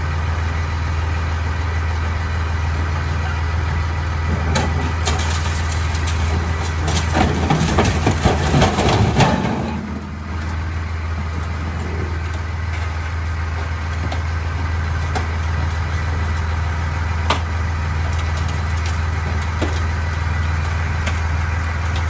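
A vehicle engine running steadily with a low, even hum, joined from about four to ten seconds in by a louder stretch of clattering and rattling, then a few single clicks.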